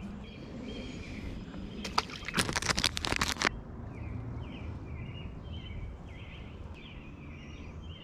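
Outdoor creekside background with a bird chirping over and over in short calls. About two seconds in comes a dense burst of rattling clicks lasting about a second and a half.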